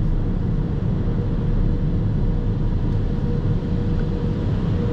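Car running slowly, heard from inside the cabin as a steady low rumble with a faint steady hum.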